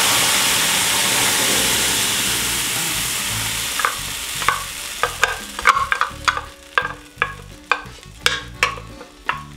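Blended beans hitting hot melted lard in a stainless steel frying pan, sizzling loudly and slowly dying down. From about four seconds in, a spoon scrapes and knocks the last of the beans out of the blender jar into the pan, about two knocks a second.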